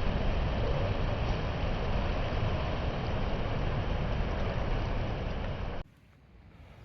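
Waterfall rushing: a steady, loud wash of falling water that cuts off abruptly near the end.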